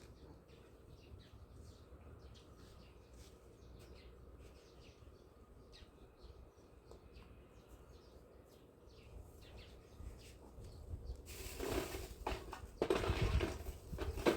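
Faint outdoor ambience with scattered short bird chirps. About eleven seconds in, a much louder rustling noise starts and comes and goes until the end.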